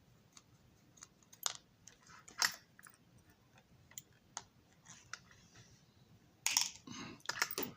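Scattered small clicks and taps of a model railroad car and its small parts being handled and worked on at the bench, with a louder rustling scrape near the end.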